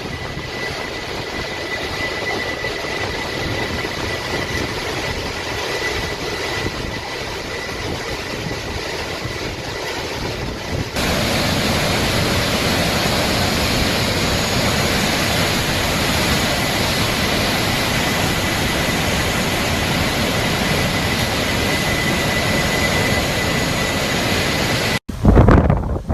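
Hurricane wind roaring steadily and buffeting the microphone, with a faint high whistle running through it. It gets louder about eleven seconds in and breaks off abruptly near the end.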